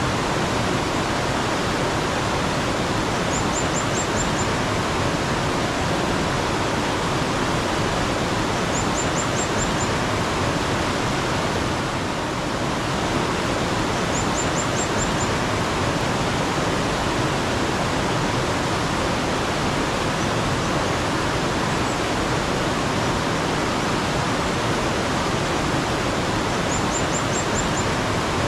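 Steady rush of flowing mountain stream water, with a bird's short, high phrase of about five quick chirps heard four times.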